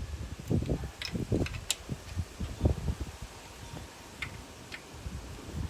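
Scattered clicks and low knocks of hand tools and metal parts being handled while an engine is bolted to an engine stand, irregular, with a few sharper ticks.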